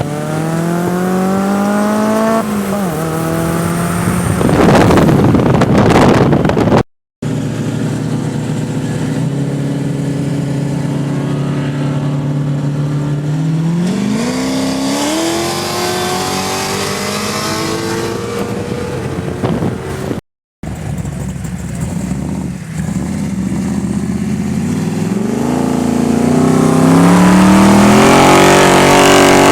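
Twin-turbo V8 Ford Falcon XR8 revving and accelerating, its engine pitch climbing and dropping several times, with loud bursts of rushing tyre and exhaust noise. The sound is broken by two very brief dropouts.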